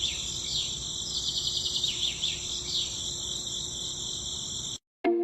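Steady high-pitched insect trilling, crickets or similar, over a low rumble. It cuts off suddenly near the end, just before music starts.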